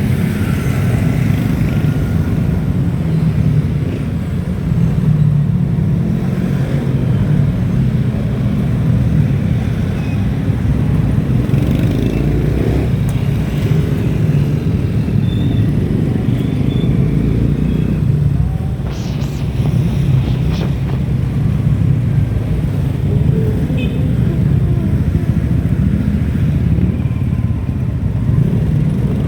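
Steady, loud low rumble of riding along a road: wind and road noise buffeting the microphone, with a few faint short high chirps now and then.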